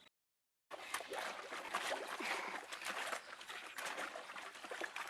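Water trickling and splashing, with many small clicks and short gurgles; it starts suddenly after about half a second of dead silence.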